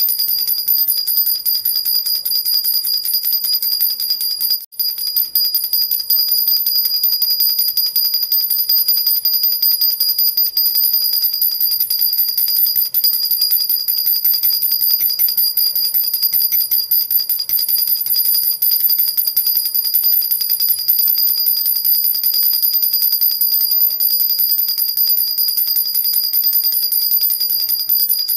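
A metal jhunjhuna baby rattle with small bells, shaken without pause, making a steady high-pitched jingling. The jingling breaks off for a moment about five seconds in.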